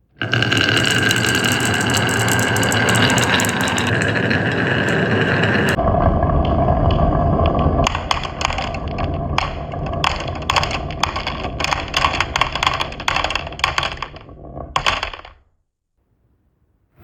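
Glass marbles rolling along a HABA wooden marble run: a steady rolling rumble, which changes to a lower rumble about six seconds in, then rapid clacks and knocks from about eight seconds in as the marbles hit the track pieces, stopping about fifteen seconds in.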